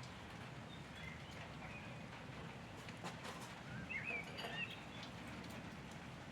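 Birds chirping in short, quick calls over a steady outdoor background hum, the calls bunched together about four seconds in, with a few faint clicks just before them.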